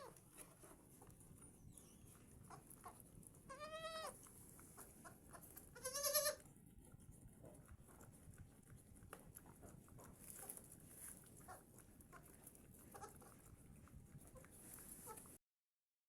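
Goats bleating: a wavering call about four seconds in and a louder one about six seconds in, the tail of another at the very start, with faint scattered clicks between.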